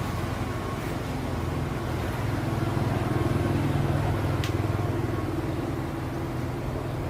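Small motorbike engine running steadily with a low pulsing note, getting a little louder for a couple of seconds in the middle before settling back.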